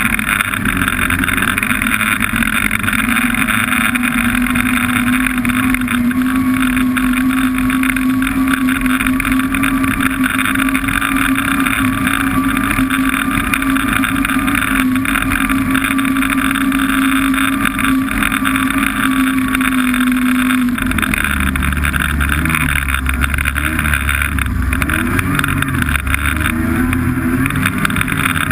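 Snowmobile engine running at a steady cruising speed. About three-quarters of the way through, the engine note drops and wavers as the machine slows, then climbs again near the end.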